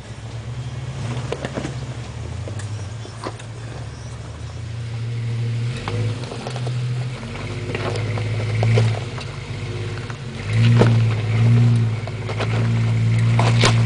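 Engine of a 4x4 off-road vehicle running and revving in repeated surges, with scattered knocks and clunks.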